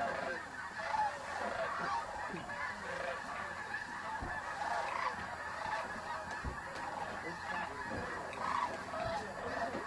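A large flock of geese calling together: a dense, continuous chorus of overlapping honks, with a few brief low bumps.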